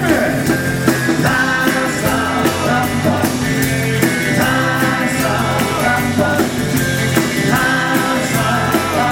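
Live rock and roll band playing a loud, full-band passage, with drums keeping a steady beat under guitar and bass.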